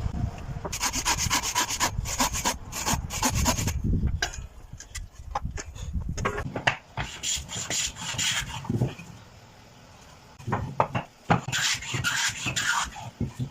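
A hand tool scraping across wood in repeated strokes, as in rasping or hand sawing a wooden piece. The strokes come quick and even for the first few seconds, then turn irregular, pause briefly about ten seconds in, and start again.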